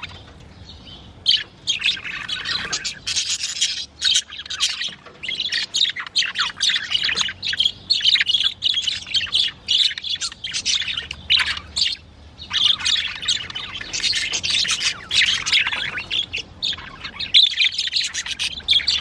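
Several budgerigars chattering in a continuous stream of rapid, high-pitched chirps and warbles, with brief lulls about four and twelve seconds in.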